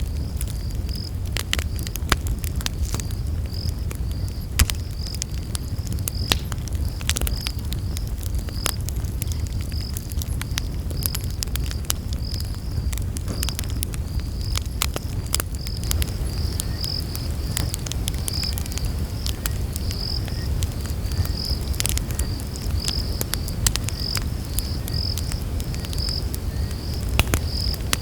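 Campfire crackling with scattered sharp pops over a steady low rumble of flame. A cricket chirps in an even, regular pulse throughout.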